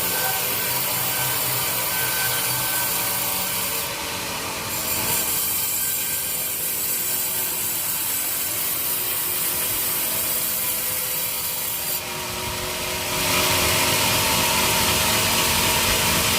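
Sawmill saw running and cutting through teak wood, a steady hissing, rasping noise that shifts in tone partway through and grows louder about thirteen seconds in.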